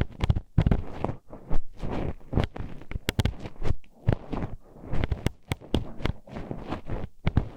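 Metal hairpin poked into the ear of an ASMR microphone: close, irregular clicking and tapping with rubbing scrapes between the clicks.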